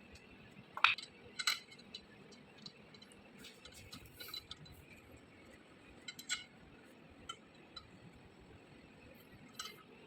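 Scattered light metallic clinks and clicks of metal parts and tools being handled, the loudest about a second in, a few more later.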